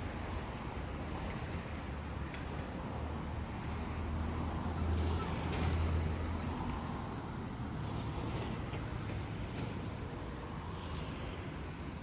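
Road traffic on a busy highway: a steady rumble of passing vehicles, swelling about five to six seconds in as a vehicle goes by.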